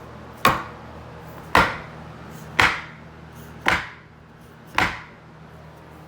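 Hammer striking a homemade wooden tapping block five times, about once a second, knocking vinyl click-lock planks together.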